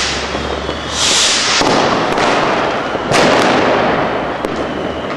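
Fireworks and firecrackers going off all around: a continuous loud crackle with sharp bangs, surging louder about a second in and again about three seconds in.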